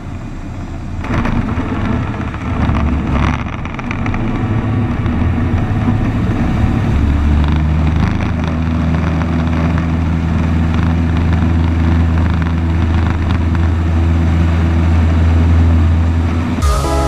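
Cessna 152's four-cylinder piston engine and propeller running steadily; the low drone gets louder about seven seconds in.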